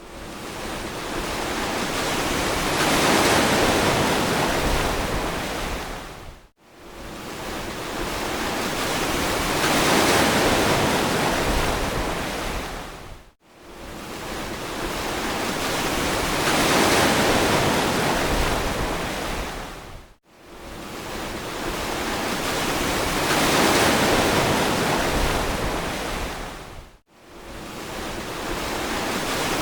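Ocean surf on a beach: each wave builds to a peak and falls away, about every seven seconds, with a brief near-silent gap between swells.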